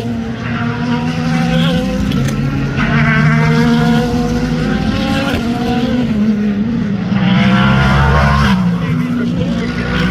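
Race car engines at full throttle as several cars go by. Their pitch climbs through the gears in repeated runs, with drops between them, over a steady low rumble.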